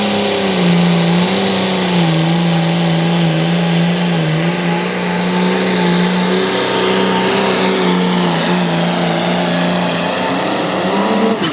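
Turbocharged diesel engine of a Limited Pro Stock pulling tractor running hard under load as it drags the sled, its pitch wavering steadily. Near the end the pitch climbs briefly and then falls off sharply.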